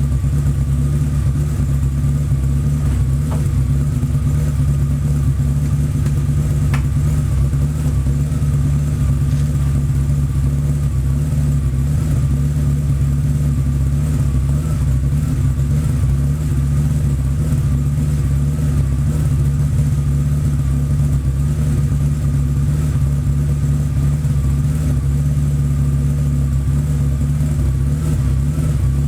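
BMW 850 (E31) V12 engine idling steadily while warming up after a winter cold start.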